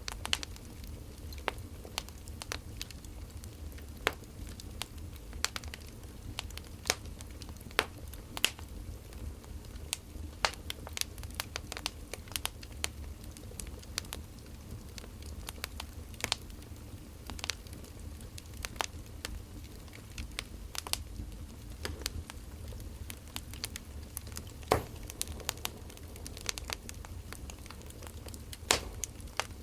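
Wood fire crackling, with irregular sharp pops, a few louder ones standing out, over a low steady rumble.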